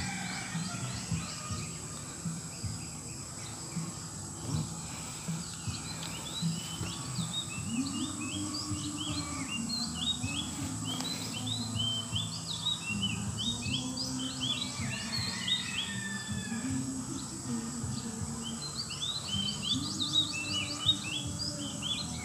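Small birds chirping, many short quick calls repeated over and over, growing busier a few seconds in, over a steady high insect whine.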